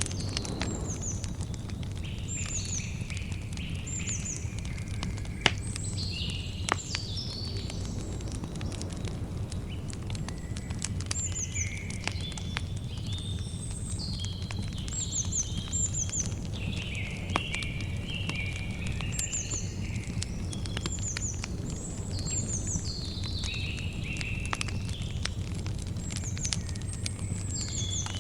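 Campfire crackling over a steady low noise, with a couple of sharper pops about five and seven seconds in. Birds call throughout with short, repeated high chirps.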